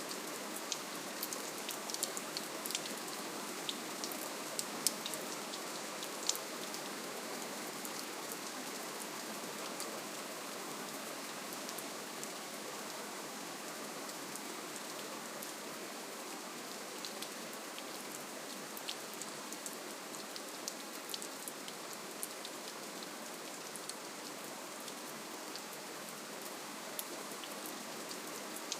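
Steady rainfall: an even hiss of rain with many small, scattered drop ticks.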